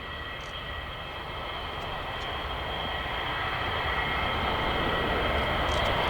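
Boeing 787-9 Dreamliner's Rolls-Royce Trent 1000 turbofans passing in a display flight: a steady jet rumble with a high fan whine, slowly growing louder as the airliner draws nearer.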